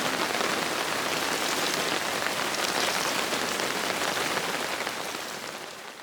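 Steady rain falling and pattering on surfaces, a dense even hiss with fine drop crackle, fading out near the end.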